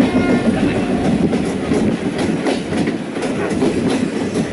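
Passenger train running at speed, its wheels rumbling steadily with irregular clicks over the rail joints, heard from inside the carriage through an open window.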